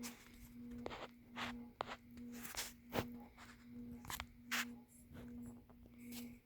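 Ceiling fan running: a steady low motor hum that swells and fades a little more than once a second, with scattered irregular clicks and crackles.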